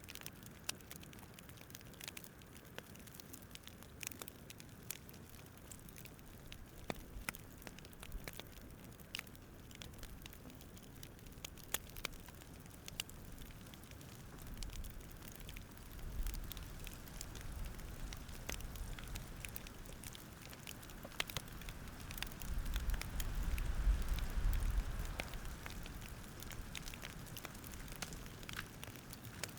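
Wood fire crackling with many sharp irregular pops and snaps, under a low rumble that swells up around the middle and again, louder, near the end.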